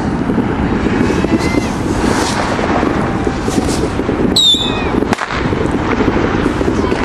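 Fireworks bursting over a continuous low rumble, with several sharp bangs and a short falling whistle about four seconds in.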